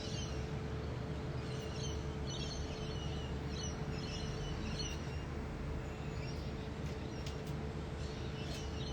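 Faint short bird chirps and calls at intervals of a second or so over a steady background rumble with a faint steady hum.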